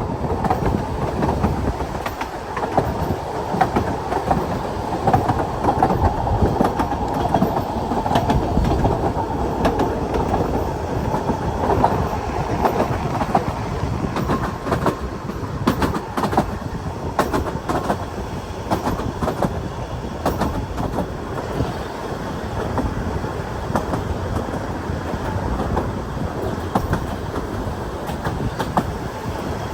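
Narrow-gauge Ffestiniog Railway train running steadily, its wheels clattering over the rail joints in a continuous rumble with frequent sharp clicks.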